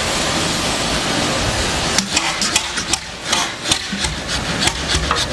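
Old engine running with a steady rushing roar, then from about two seconds in an irregular clatter of sharp knocks, several a second.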